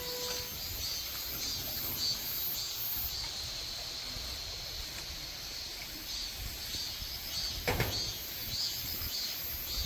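Outdoor ambience: a faint steady rumble with soft, repeating high-pitched chirping over it, and one short knock about three-quarters of the way through.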